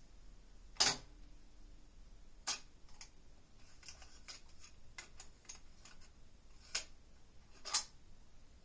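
Yamaha K-1A cassette deck's transport controls being operated: a series of sharp mechanical clicks, some loud and single, with a quicker cluster of lighter clicks in the middle, over a faint low hum.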